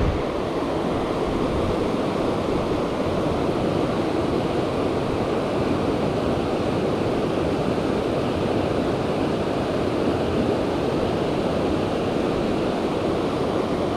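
Steady rush of river water pouring over shoals or a waterfall, an even, unbroken sound.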